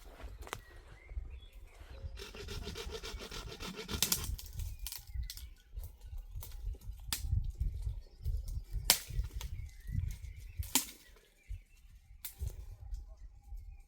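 Wood being handled: rubbing and scraping of branches, with a scraping stretch about two seconds in and sharp knocks or snaps scattered throughout, over a steady low rumble.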